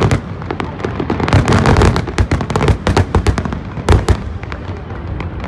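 Fireworks bursting in rapid succession, a dense string of cracks and booms with one especially loud bang about four seconds in.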